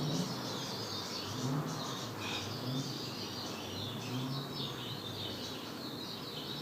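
Birds chirping in the background: a steady run of many short, high calls.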